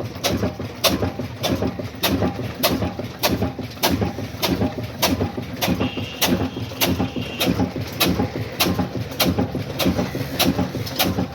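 Old Ruston Hornsby diesel engine running slow and steady, each firing stroke a sharp knock a little under two times a second over a low rumble.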